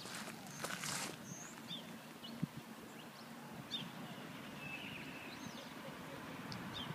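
Scattered short bird chirps over a steady low outdoor rumble, with a few sharp clicks about a second in and another midway.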